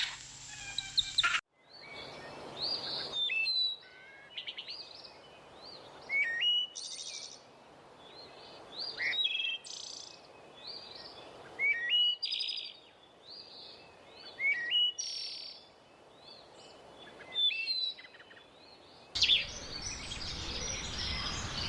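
Small birds chirping: short rising chirps and some buzzier notes, repeated every second or two with quiet gaps. Near the end it changes to a denser chorus of chirps over a steady hiss.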